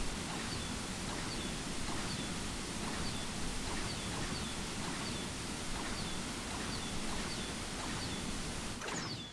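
Steady background ambience noise with a bird repeating a short, high, falling chirp about every half to three-quarters of a second.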